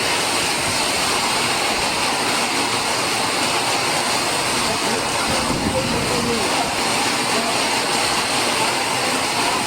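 Heavy stormy rain pouring steadily, a dense even hiss.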